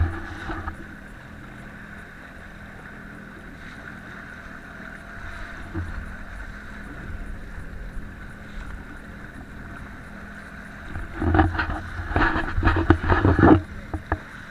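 Jet ski engine running at a steady drone. From about eleven seconds in, a couple of seconds of louder irregular knocks and rushing break over it.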